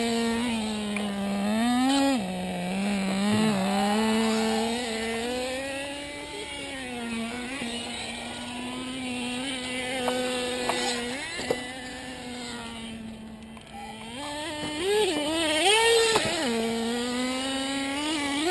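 Radio-controlled car motors running, their pitch rising and falling as the throttle is worked, with a few short knocks along the way.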